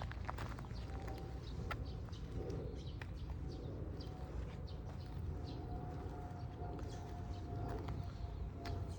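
Low-pitched bird calls, a few soft repeated notes, over a steady low rumble with a faint steady tone.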